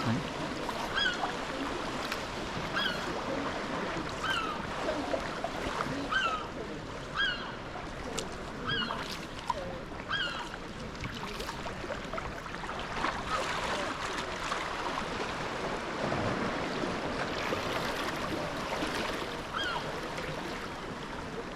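Sea kayak being paddled on open water: steady splashing and sloshing of paddle strokes and small waves, with a short high squeak repeating about once a second in time with the strokes, fading out midway and returning near the end.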